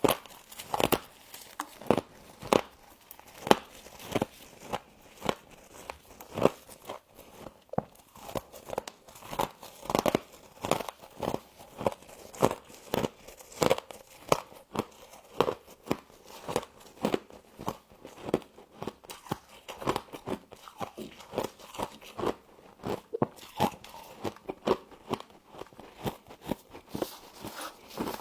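Close-up crunching of humidifier frost being bitten and chewed: sharp, crisp crunches at about two or three a second, steadily throughout.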